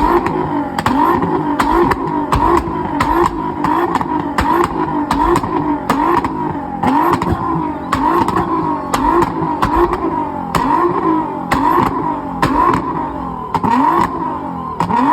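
A car engine revving up and down in an even, fast rhythm, about twice a second, with sharp cracks among the revs.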